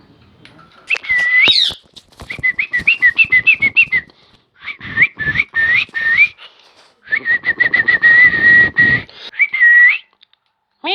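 Baby parrot making rapid runs of clicking calls with short whistled notes. Near the middle comes a longer held whistle.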